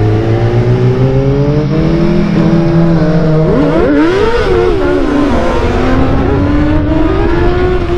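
Motorcycle engine running under way, its pitch climbing steadily as it pulls. It has a quick wobble down and back up in pitch about halfway through, then climbs again.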